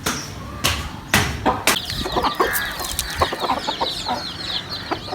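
Chickens clucking, with a dense chatter of high chick peeps starting about two seconds in; a few sharp knocks come first.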